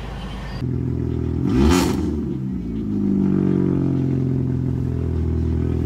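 Car engine blips its revs about a second and a half in, then settles into a steady running note.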